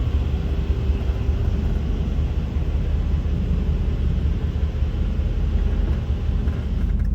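Steady low rumble heard from inside a truck's cab in an automatic car-wash bay: the idling truck engine together with the D&S 5000 in-bay wash machine running.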